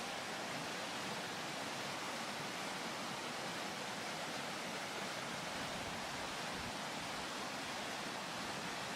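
Rushing water of a rocky creek pouring over rapids and a waterfall: a steady roar with no breaks.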